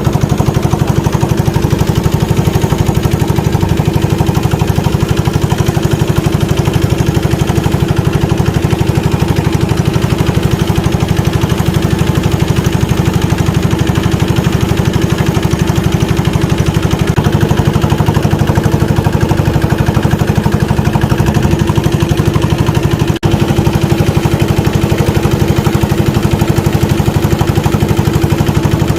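A motor boat's engine running steadily with a fast, even chugging, cutting out for an instant about three-quarters of the way through.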